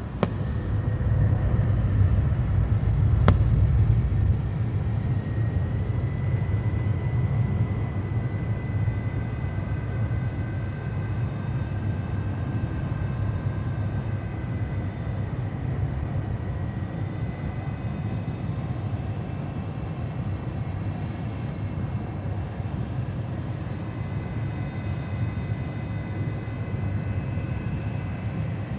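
Cabin noise inside an Airbus A350-900 with Rolls-Royce Trent XWB-84 engines: a steady low rumble of airflow and engines with a faint high engine whine, a little louder in the first few seconds. A single sharp click about three seconds in.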